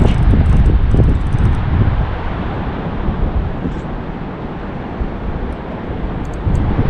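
Wind buffeting the microphone: a loud, even rumble, strongest in the first two seconds and easing after.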